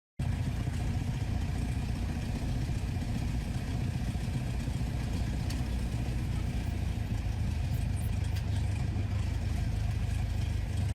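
A steady, low engine rumble with a faint clatter, starting and cutting off abruptly.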